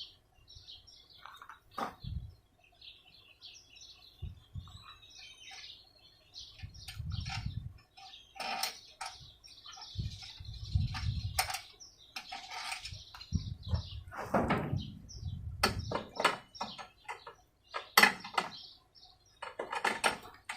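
Scattered clicks, clacks and low thuds of a push lawn mower being handled and adjusted during assembly, with birds chirping in the background.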